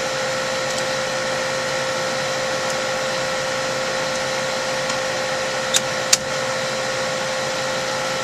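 Walk-in freezer refrigeration equipment running with a steady hum and a held tone. Two sharp clicks come about six seconds in, a fraction of a second apart.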